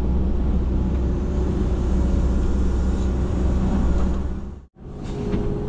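Cat 312CL excavator's diesel engine running steadily under load. The sound cuts out abruptly about three-quarters of the way through and fades back in a moment later.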